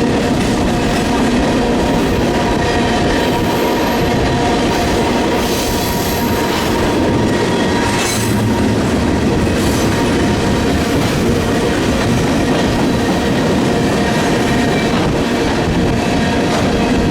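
Freight train cars rolling steadily past, with a thin steady wheel squeal and a few sharp clacks from the wheels. Wind buffets the microphone under it.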